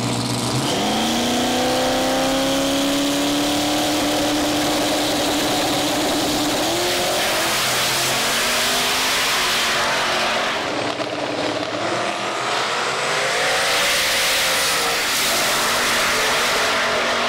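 Drag-race vehicles at full throttle accelerating down the track. The engine tones climb from about half a second in, step up around seven seconds, and sweep up again near the end, over a dense roar.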